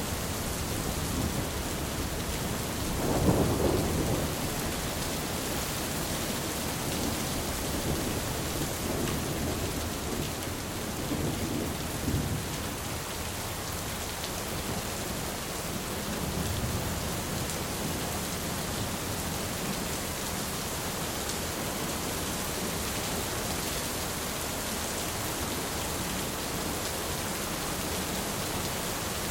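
Steady heavy rain with thunder: a low rumble swells about three seconds in, and fainter rumbles follow around twelve and sixteen seconds in.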